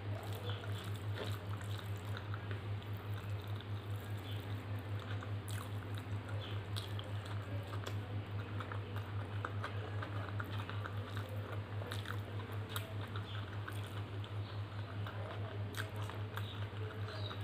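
Close-miked wet chewing and lip-smacking of a person eating dal and rice by hand, with soft squishing as fingers mix the rice. A steady low hum runs underneath.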